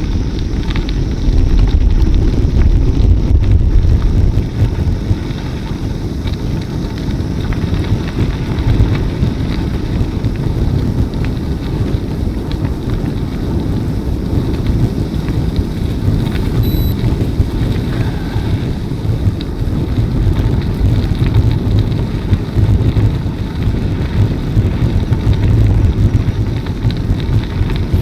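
Wind buffeting the microphone of a camera riding along on a moving bicycle: a loud, steady, fluttering rumble.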